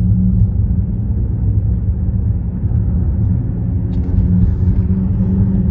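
Steady low rumble of road traffic on a concrete bridge, with a faint click about four seconds in.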